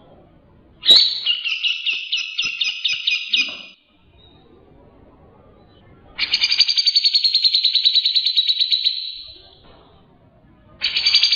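Grey-cheeked bulbul (cucak jenggot) singing in three bursts of rapid, chattering repeated notes. The first starts about a second in and lasts about three seconds, the second starts about six seconds in and runs about three seconds, and a third starts near the end.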